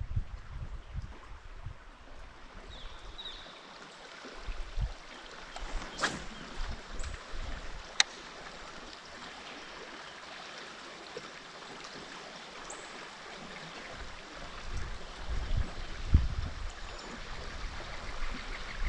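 Steady rush of flowing river water, with two sharp clicks about six and eight seconds in and some low rumbling.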